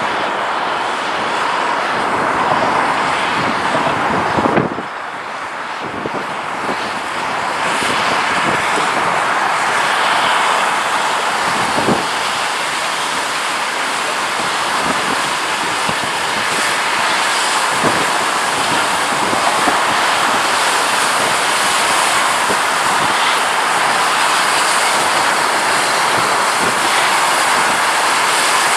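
A train running past: a steady loud rushing noise with a few separate knocks, about 5, 12 and 18 seconds in.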